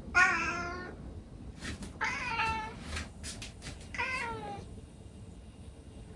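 A domestic cat meows three times, about two seconds apart; each meow lasts under a second and the last two fall in pitch at the end.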